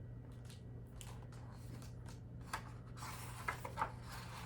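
Quiet room tone with a steady low hum and a few faint clicks and rustles, the clearest about two and a half seconds in and a cluster near the end.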